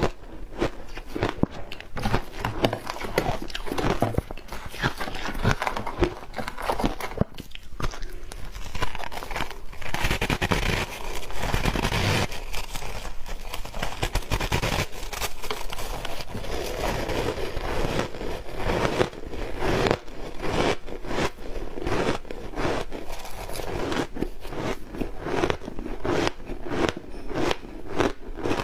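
Ice coated in matcha green tea powder being bitten and crunched, a close run of cracks and crackles with a denser stretch of steady crunching about a third of the way in.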